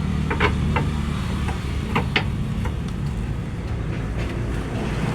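A handful of sharp metallic clinks and knocks from hand tools and suspension parts being fitted to a car, clustered about half a second in and again about two seconds in, over a steady low mechanical rumble.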